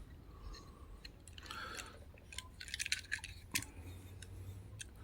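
Faint clicks and light scraping of a die-cast toy car being turned over in the hands, with one sharper click about three and a half seconds in.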